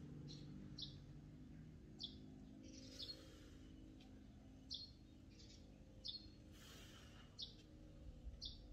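Faint bird chirping: short, high, downward chirps, about one or two a second, over a faint low background.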